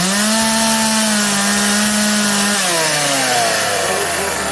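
Craftsman 358.351380 two-stroke chainsaw engine revving. It holds at high speed for about two and a half seconds, then drops back and runs unevenly at a lower speed near the end.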